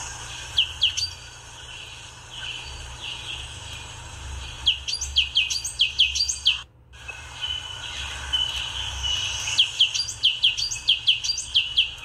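A bird chirping in quick runs of short, sharp notes that sweep downward in pitch: a couple of notes about half a second in, a run of about eight near the middle, and another run of about eight near the end. The sound cuts out for a moment just before the middle run ends.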